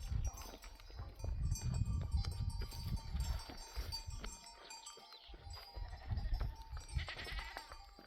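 Flock of sheep on the move, with a bleat about seven seconds in over a low uneven rumble.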